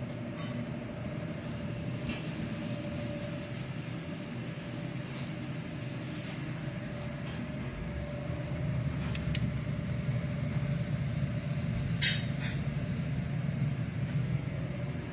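Steady low rumble with a faint constant hum, broken by a few light clicks and taps, the clearest pair about twelve seconds in.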